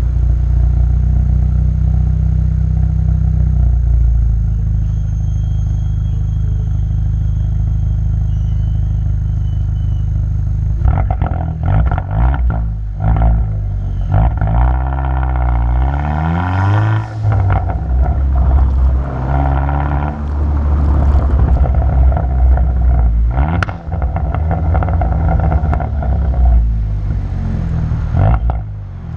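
Muffler-deleted exhaust of a 2020 Hyundai N Line car running at a steady low rumble for about ten seconds, then revved repeatedly, its pitch rising and falling. The muffler has been removed while the secondary catalytic converter and resonator remain.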